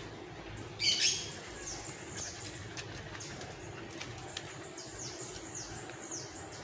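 Birds chirping, a run of quick high notes that each fall in pitch, repeated every half second or so. A short, loud, sharp double sound comes about a second in.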